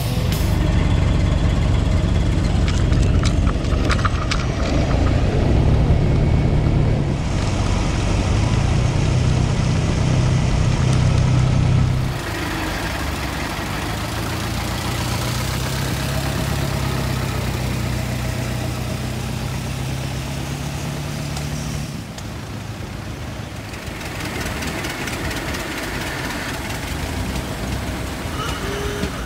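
Vintage Ford Model T four-cylinder engines running slowly with a steady low rumble, loudest in the first twelve seconds and quieter after cuts at about twelve and twenty-two seconds.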